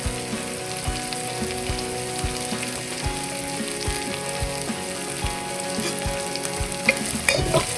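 Onion, green chilli and curry leaves sizzling as they sauté in hot sesame oil in a pan, a steady frying hiss, with a few utensil clicks near the end.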